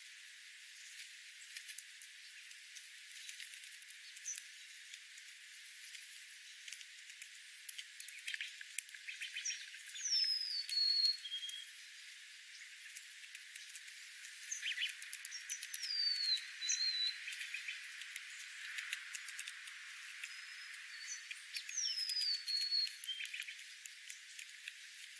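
Wild birds calling: a short downward-sliding whistled phrase repeated three times, about six seconds apart, over a scatter of quick ticks and chips.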